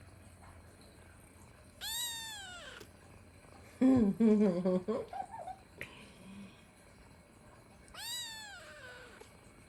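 A domestic cat meowing: two drawn-out meows, each rising then falling in pitch, about six seconds apart, with a louder, lower-pitched wavering call between them.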